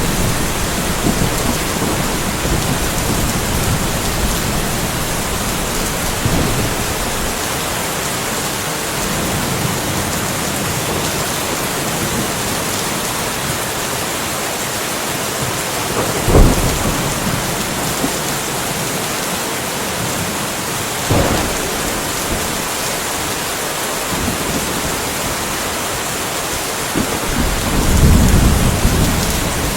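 Steady rain falling, with thunder: a sharp thunderclap about halfway through, a smaller crack a few seconds later, and a low rumble swelling near the end.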